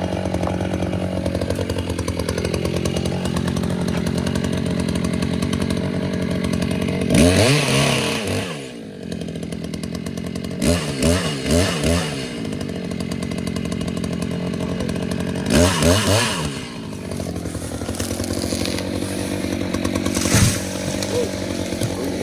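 Two-stroke chainsaw running at a steady idle, revved up and back down in short bursts three times, with a brief sharp blip near the end.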